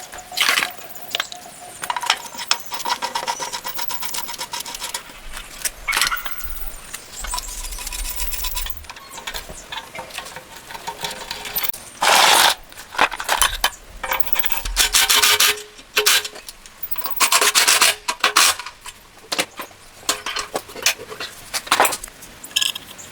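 Scraping and rubbing in repeated hand strokes, irregular, with a few longer, louder strokes midway and later.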